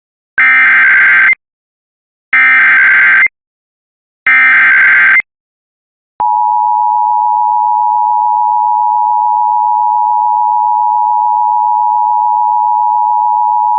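Emergency Alert System header: three identical one-second bursts of SAME digital data tones, then a steady attention tone starting about six seconds in. Together they open a broadcast severe thunderstorm warning.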